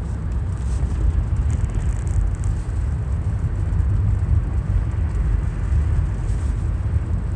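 A car being driven, its engine and tyres making a steady low rumble heard from inside the cabin.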